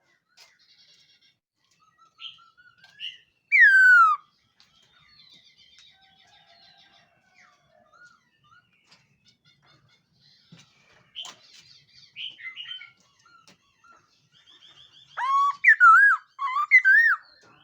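Khướu mun laughingthrush singing in loud whistled phrases. There is a clear downward-slurred whistle about three and a half seconds in, then scattered soft notes, and a run of loud warbling whistles near the end.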